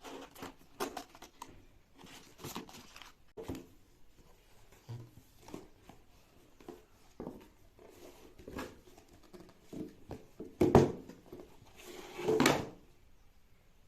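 Packaging being handled and opened: scattered clicks, taps and rustles of cardboard and plastic, with a louder scrape about eleven seconds in and a short tearing rustle near the end.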